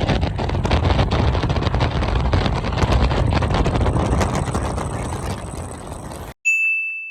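Twin-turbo race cars running down the road, their engine and exhaust noise fading steadily as they pull away. The sound cuts off abruptly about six seconds in, followed by a steady high-pitched electronic tone.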